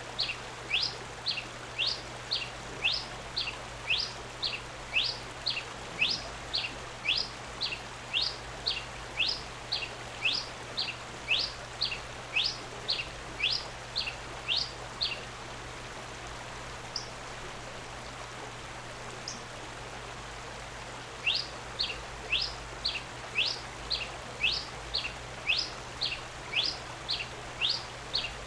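A songbird singing one short, clear, quickly sweeping note over and over, about two a second. The series breaks off for several seconds about halfway through, with one or two faint single notes in the gap, then starts again.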